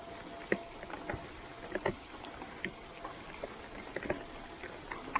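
Rain falling steadily as a soft, even hiss, with scattered short splashes and knocks.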